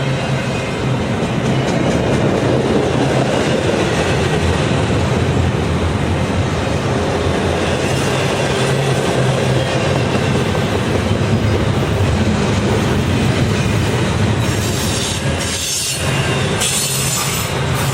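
A train rolling past: a loud, steady rumble of railcars on the rails with a low hum underneath, dipping briefly near the end.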